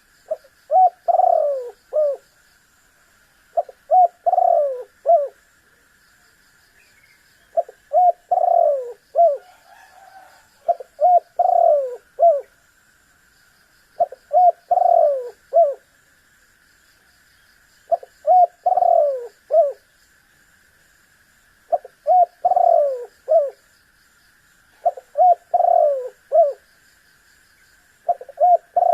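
Spotted dove (tekukur) cooing: a short multi-note coo phrase repeated about every three to four seconds, over a steady high insect drone.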